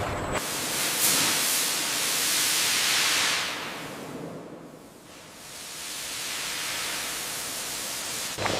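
A loud, even hiss of rushing noise that starts suddenly, fades almost away about halfway, swells again, and cuts off near the end.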